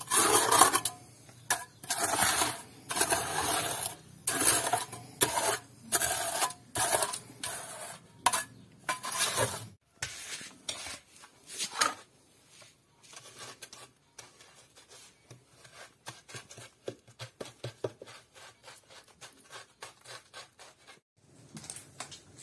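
Steel mason's trowel scraping and spreading wet mortar in repeated strokes, loud and regular for about the first ten seconds, then fainter, shorter scrapes and ticks.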